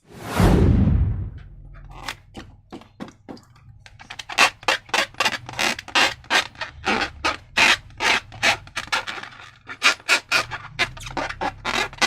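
Slime being squished and worked by hand, giving a run of short sticky crackles and squelches, two or three a second. A loud burst right at the start fades over about a second.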